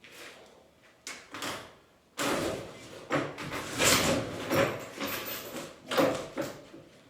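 Hand demolition work: a few knocks, then from about two seconds in an irregular run of scraping and knocking as material is pried and dragged loose.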